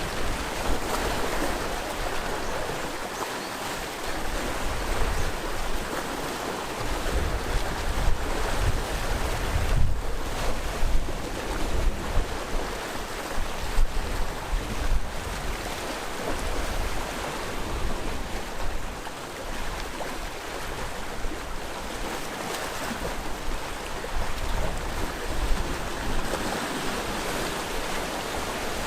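Sea waves washing against the rocky shore in a continuous noisy wash that swells and falls, with gusts of wind buffeting the microphone.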